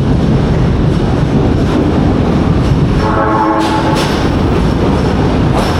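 A train running past close by, with a loud, steady rumble. A brief tone sounds about three seconds in.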